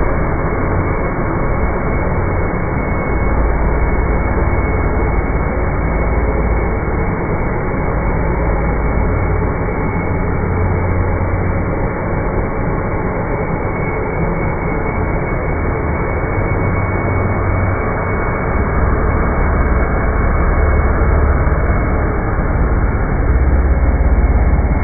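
Dirt Devil Ultra Vision Turbo upright vacuum cleaner running steadily, with a low rumble that swells and eases every few seconds.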